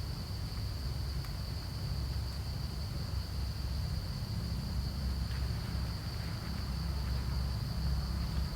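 Steady high-pitched insect drone over a low rumble of wind on the microphone.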